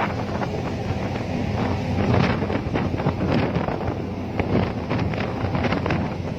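Wind buffeting the microphone: a steady low rumble with irregular gusty bursts.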